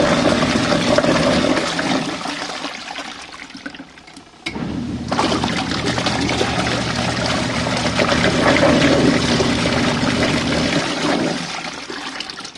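Washing machine tub taking in water for a rinse: a steady rush of water that dies away about four seconds in, starts again abruptly half a second later, and tapers off near the end.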